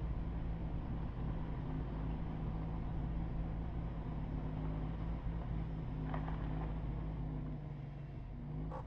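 Steady engine and road noise of a moving car: a low, even drone with a constant hum.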